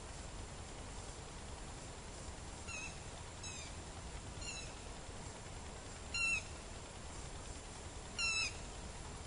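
A bird calling: five short notes, each sliding down in pitch, spaced about a second or two apart, the last two near six and eight seconds in the loudest, over a steady background hiss.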